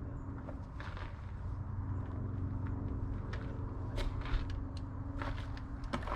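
A steady low mechanical hum with scattered sharp clicks and knocks, the loudest a little after four seconds in.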